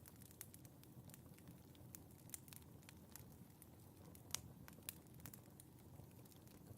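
Fire in a fireplace crackling faintly: irregular small snaps and pops over a low rumble, with a sharper pop a little past the middle.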